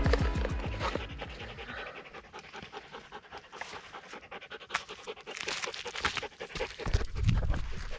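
A dog panting rapidly and steadily. Music fades out in the first second or so, and a short low rumble comes near the end.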